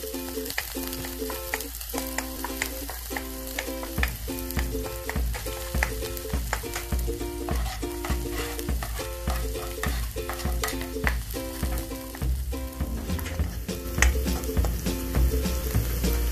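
Food frying in a hot pan, sizzling and crackling steadily while it is stirred. Light background music with a regular strummed beat plays alongside.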